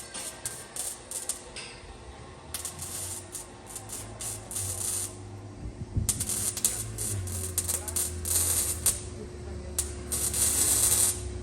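Exhaust-shop work noise: bursts of hissing and clattering, clicking from tools, over music with a stepping bass line.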